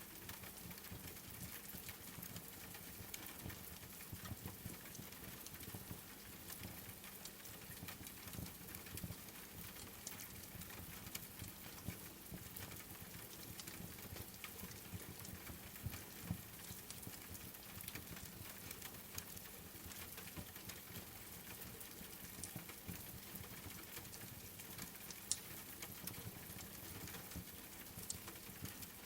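Steady rain pattering, with a wood fire crackling: many small pops scattered throughout and a couple of sharper pops, one about halfway and one near the end.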